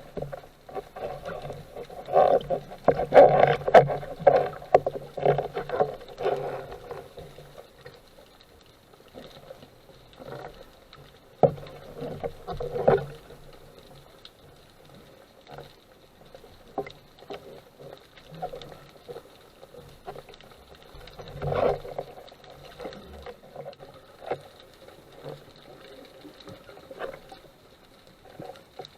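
Muffled water sounds from a camera in an underwater housing: splashing and bubbling in irregular bursts, loudest for a few seconds near the start and again briefly twice later, with faint clicks between.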